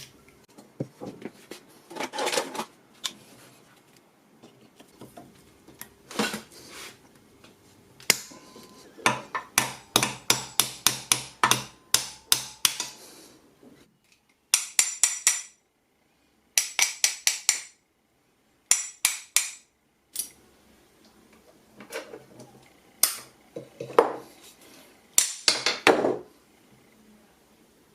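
Hand tools clicking and knocking against small metal and plastic parts: scattered knocks, then a fast run of taps about nine seconds in, and three short rattling bursts with a ringing edge.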